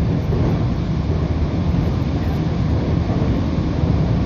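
Seoul metro electric train running across a steel truss railway bridge, heard from inside the carriage: a deep, steady rumble of wheels on rails with no breaks.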